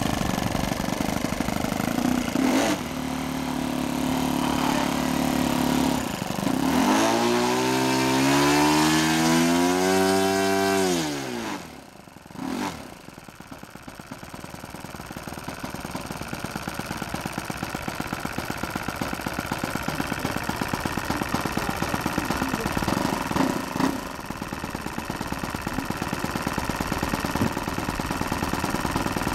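O.S. FS-52 four-stroke glow engine on a model airplane: it runs steadily, then its pitch climbs and falls back over a few seconds. After a brief dip it settles into a low, evenly pulsing idle that slowly grows louder.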